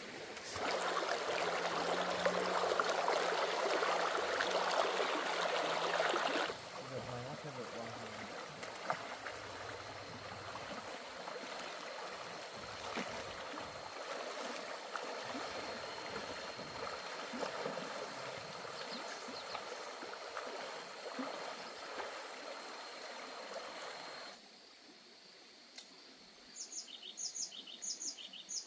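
Water running or pouring, loudest for the first six seconds and steady at a lower level after that; the sound drops away near the end. Just before the end a bird chirps several times in quick succession.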